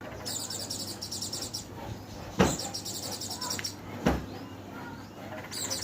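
A white-eye (pleci) singing in two runs of fast, high chirping trills, each a little over a second long. Two sharp knocks come about two and a half seconds in and again about a second and a half later.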